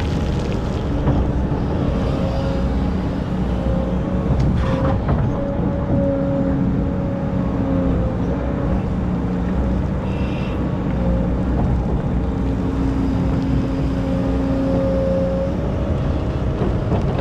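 Excavator's diesel engine running steadily under load, with humming tones that come and go as the machine works, and a short clatter about four and a half seconds in.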